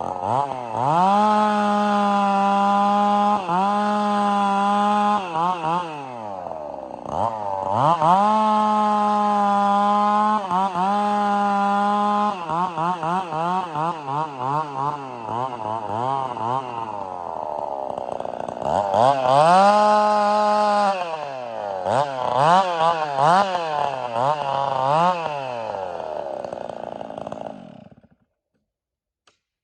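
Gas chainsaw bucking firewood. It revs up to full throttle and holds there through cuts, drops back toward idle between them, and settles to a lower pitch for a few seconds midway. Near the end comes a string of quick throttle blips, then the engine dies away and stops.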